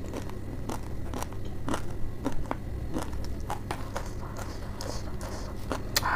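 Close-miked chewing of crunchy dry instant noodles and raw cabbage: a steady run of short, sharp crunches, with a louder one near the end, over a faint low hum.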